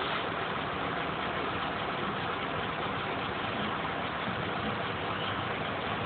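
Steady engine noise, typical of road vehicles idling while held at the lowered barriers of a level crossing.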